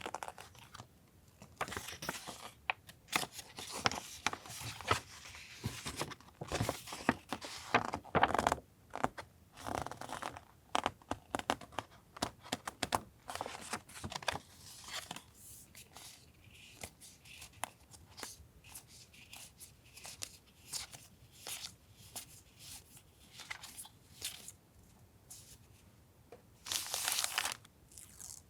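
Paper stickers and memo-pad sheets being handled: crisp rustling and tearing of paper, with scattered light clicks and taps. The rustling is busiest in the first half, and there is a short louder rustle near the end.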